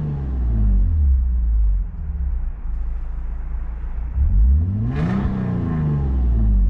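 Lexus IS250's 2.5-litre V6, running on a fresh M-Force ECU tune, idles steadily. About four seconds in it is revved once, its pitch climbing and then falling back to idle.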